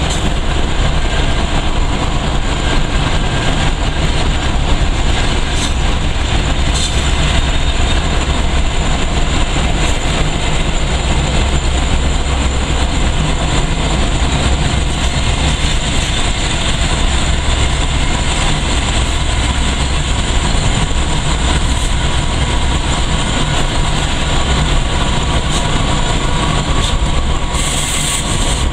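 Steady rumble and rushing noise of a car moving at highway speed alongside a freight train headed by five diesel locomotives, heard through the car's passenger window. A short rush of higher hiss comes near the end.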